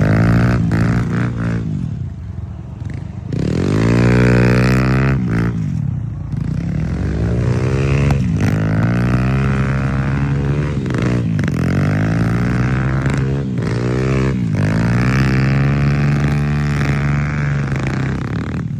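Dirt bike engine revving hard again and again, its pitch climbing and then falling with each burst, with a brief quieter lull about two seconds in.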